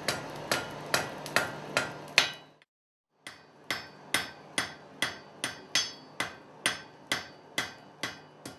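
Blacksmith's hammer striking hot metal on an anvil with steady ringing blows, about two a second, broken by a short pause about two and a half seconds in before the hammering resumes.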